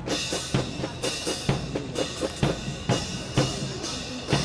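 Drum-led music with a steady, driving beat of bass and snare drum strikes.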